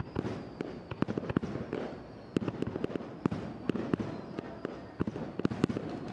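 Aerial fireworks shells bursting in a rapid, irregular barrage. There are several sharp bangs a second, with a rumble carrying on between them.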